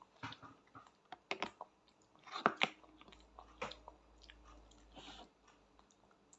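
Close-up chewing and biting of pasta: a string of wet mouth smacks and short clicks, loudest about two and a half seconds in.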